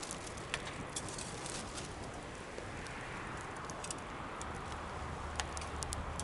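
Campfire burning, with sharp irregular crackles and pops over a steady hiss.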